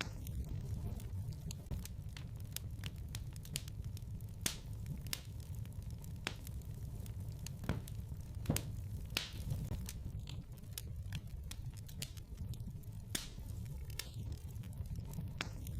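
Wood fire crackling in a fireplace: irregular sharp snaps and pops over a steady low rumble of the burning logs, with a couple of louder pops about eight seconds in.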